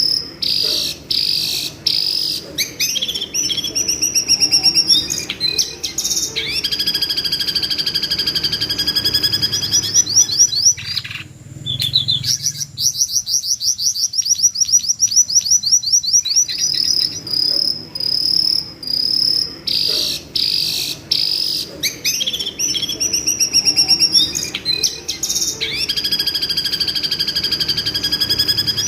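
Jongkangan bird screeching over and over: loud, shrill, piercing calls broken by fast rattling trills, used as training audio to rile a white-rumped shama. Midway the calls stop for a few seconds, leaving only a rapid, high ticking trill.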